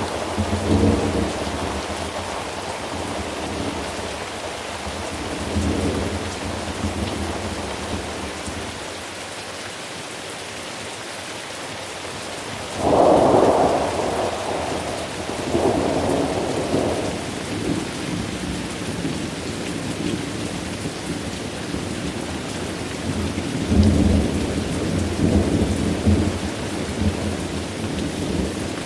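Steady heavy rain with rolling thunder. A sudden loud thunderclap comes about halfway through and rumbles on for several seconds, and another roll of thunder follows near the end.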